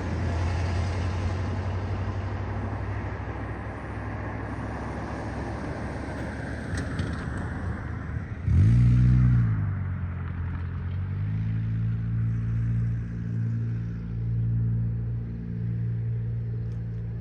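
Diesel locomotive engine running with a noisy rumble. About eight seconds in, the engine surges briefly, rising and falling in pitch, then settles into a steady low hum.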